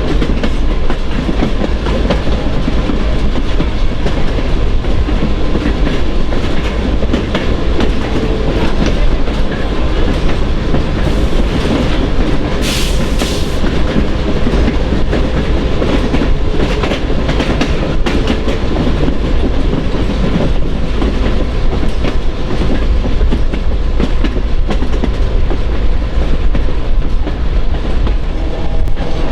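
Train rolling steadily over the rails, a continuous loud rumble with clickety-clack from the wheels. About 13 seconds in, a short high-pitched wheel squeal.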